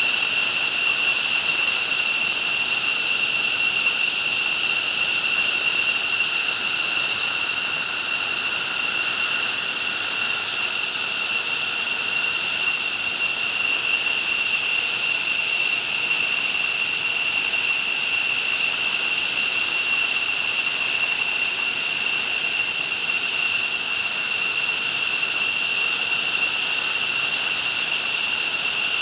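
F-15 fighter's twin Pratt & Whitney F100 turbofan engines running steadily on the ground, with a high, unchanging whine of several tones over the jet noise.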